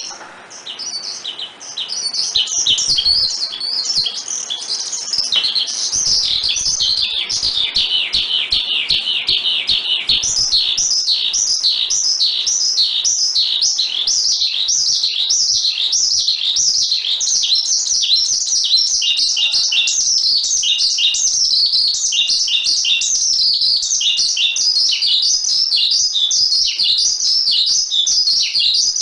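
A songbird singing a long, fast, unbroken run of high chirping notes, softer for the first second or two and then steady.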